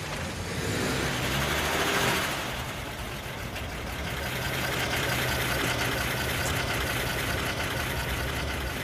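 A taxi's car engine runs as the cab drives up and stops, then idles steadily with a low hum. A rush of louder noise swells and fades about two seconds in as it pulls in.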